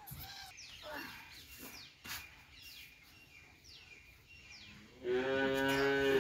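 Small birds chirping: short, faint falling chirps repeated every half second to a second. About five seconds in, a loud, steady, low-pitched voice-like drone starts and holds.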